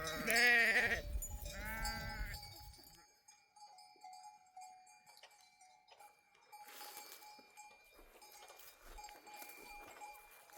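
Sheep bleating twice in quick succession, a long wavering bleat and then a shorter one, with small flock bells ringing faintly after them.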